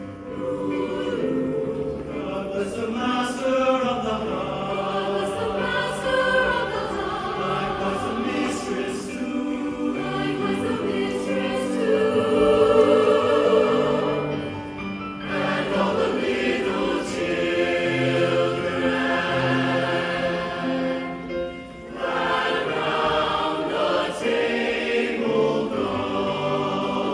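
A choir singing in parts over sustained low accompanying notes, with brief breaks between phrases about fifteen and twenty-two seconds in.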